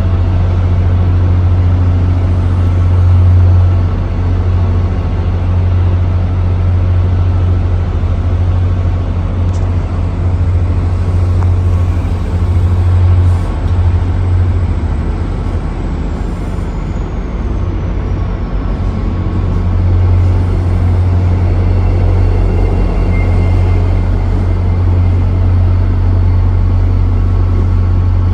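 A bus or subway train runs steadily with a deep, loud hum. A faint high whine falls in pitch about sixteen seconds in.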